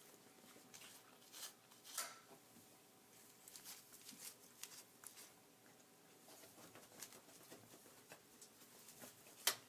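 Faint, scattered rustling and light taps of cats pawing and rolling among catnip toys, with a sharper click near the end.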